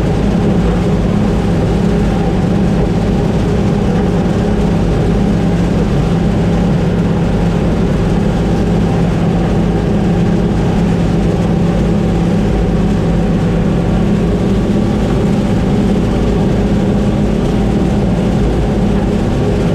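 Combine harvester running steadily while harvesting corn: a constant engine and machinery drone with no change in speed.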